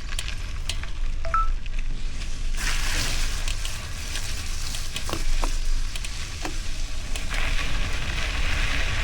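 Bicycle tyres rolling over gravel: a steady crackling crunch with scattered sharp clicks from stones, over a low rumble of wind on the microphone.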